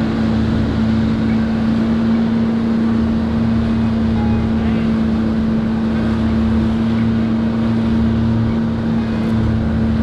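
Boat's outboard motor running steadily at low speed with a constant hum, with wind and water noise on the microphone.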